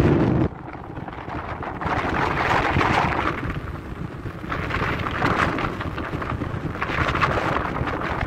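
Strong wind buffeting the microphone, loud and rumbling for the first half second, then lower with gusts swelling every couple of seconds.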